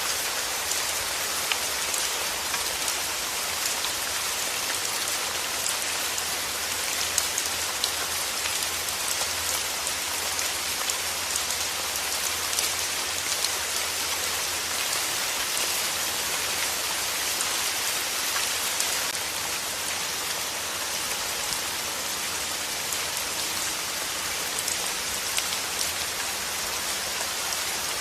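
Steady rain falling on a surface: an even hiss with many scattered, sharper drop ticks.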